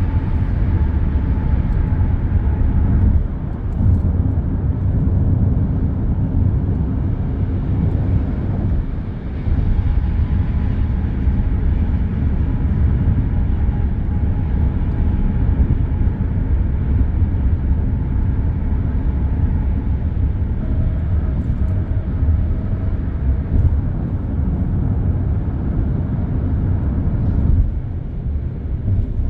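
Steady rumble of dense expressway traffic, tyres and engines blended together. Faint whining tones from passing vehicles drift slowly in pitch, and the level dips briefly a couple of times.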